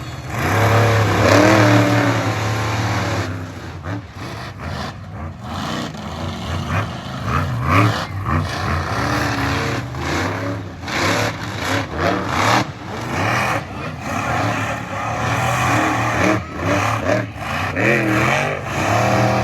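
Monster truck engines revving hard and pulling up and down in pitch during a race, loudest in the first few seconds.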